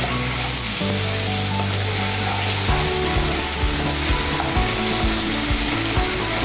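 Grated potato frying in hot oil in a nonstick kadai, with a steady sizzle and the scrape of a wooden spatula stirring it.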